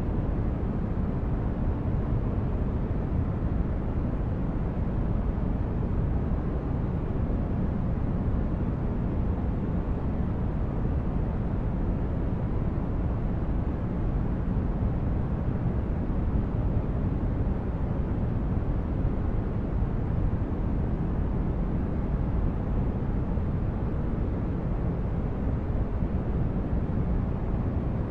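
Steady, unchanging noise of a sleep-aid white-noise track, weighted toward a deep low rumble with the highs much softer.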